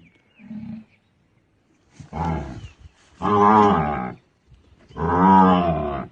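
A trapped cow bellowing three times: long, deep calls of about a second each, the first about two seconds in and the last near the end, with a short low grunt before them.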